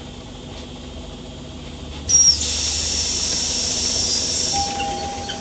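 Compressed-air hiss from a Scania OmniCity city bus's pneumatic system: a sudden release about two seconds in that opens with a short high squeal and hisses for about three seconds, over a low steady hum. A short steady tone sounds near the end.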